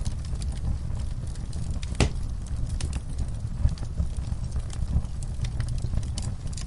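Wood fire crackling in a fireplace: scattered sharp pops and snaps over a steady low rumble, with one louder pop about two seconds in.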